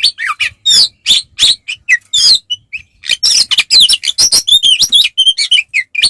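Oriental magpie-robin (kacer) singing loudly in a fast, varied stream of whistles, chirps and harsh buzzy notes, the aggressive 'fighting' song used to provoke other kacer. There is a brief lull about halfway through.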